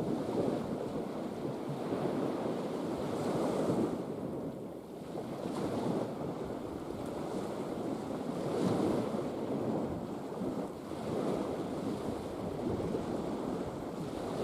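Sea waves washing in, swelling and easing every few seconds, with wind rumbling on the microphone.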